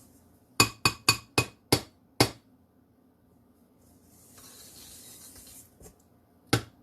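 A kitchen utensil tapping sharply against a dish six times in quick succession, then a soft scrape of frosting being spread for a second or two, and one more tap near the end.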